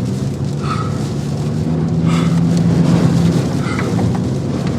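Car engine running, heard from inside the closed cabin, its hum swelling a little in the middle, over the noise of strong rear-flank-downdraft wind hitting the vehicle.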